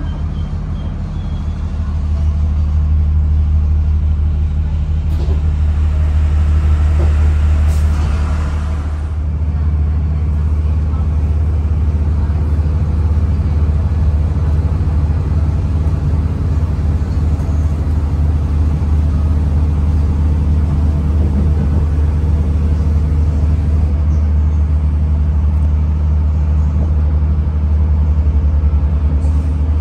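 Diesel commuter train heard from inside the carriage: a steady low engine drone with a hum of engine tones, over the rumble of the running gear. It picks up a little about two seconds in as the train pulls away from the station and gets under way.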